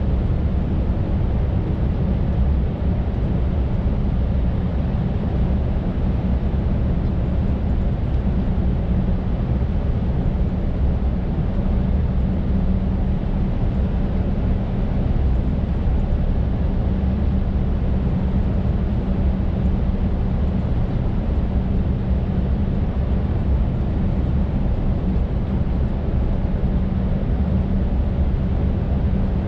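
Scania R580's V8 diesel engine running steadily under way, a constant low drone with road and tyre noise, heard from inside the truck's cab.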